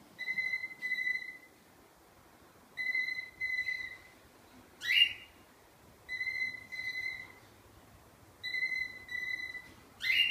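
Pet bird mimicking a telephone ring: four double rings, each pair of trilled tones lasting about a second, with a short rising whistle about halfway through and another near the end.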